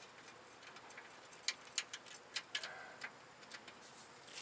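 Scattered sharp metal clicks and ticks from a ratchet and socket being worked on a steering rack mounting bolt, irregular and a few per second.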